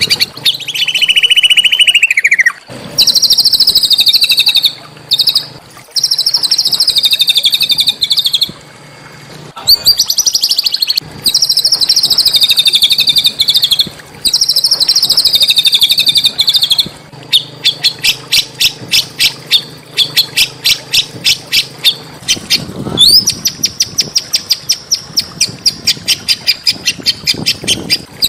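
A small songbird singing loud, fast trilled phrases that start and stop abruptly. Later comes a run of sharp, rapid notes, then a long, high, rapid trill.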